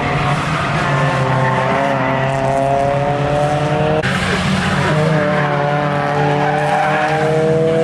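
Track car's engine accelerating hard through a turn, its pitch rising steadily, then dropping at an upshift about four seconds in and rising again.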